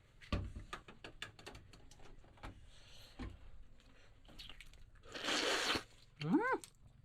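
A small animal giving a short squeal that rises and then falls in pitch, about six seconds in, among scattered clicks and crunching, with a short burst of hiss just before the squeal.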